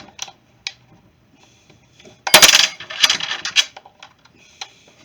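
Small metal tools clattering and rattling as they are handled: a few sharp clicks first, then a loud jangle for about a second and a half in the middle.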